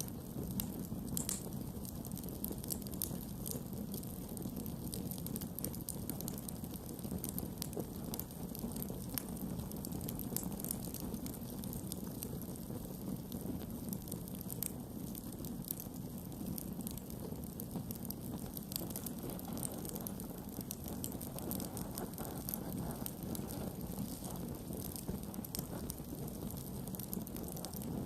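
Wood campfire burning, with frequent small crackles and pops over a steady low hiss.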